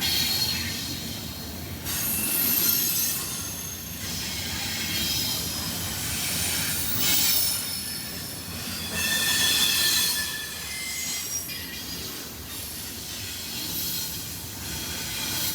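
Freight train cars rolling past, their steel wheels squealing against the rails in high tones that come and go over a steady rumble.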